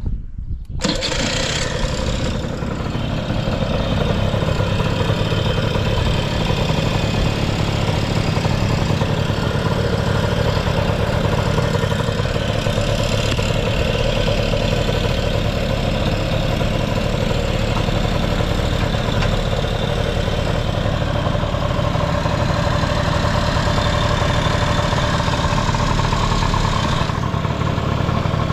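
Honda Lead 90 scooter's two-stroke engine starting up and then idling steadily, with no abnormal engine noise.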